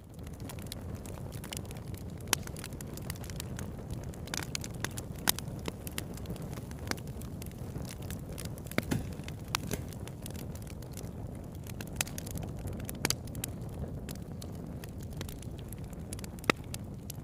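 Wood campfire burning with a steady low rumble of flames and irregular crackles and sharp pops from the burning wood, a handful of them louder than the rest.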